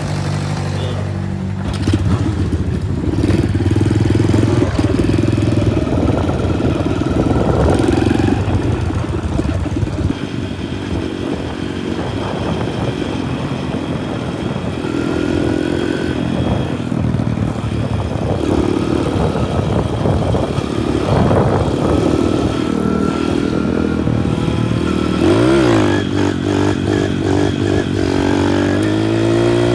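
Small motorbike engine running steadily, with clatter and rushing noise as it is ridden. The pitch rises and falls a few times near the end as the engine revs.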